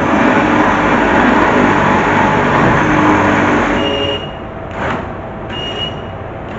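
Arccaptain MIG200 MIG welder arc crackling through a run of about four seconds that starts and stops abruptly, followed by two short bursts near the end, as rusted floor and cowl areas of a 1966 Mustang are patched.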